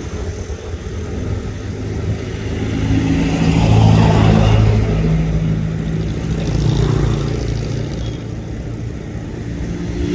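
Road traffic: motor vehicles passing close by, their engines swelling up to a peak about four seconds in and again around seven seconds, over a steady low rumble.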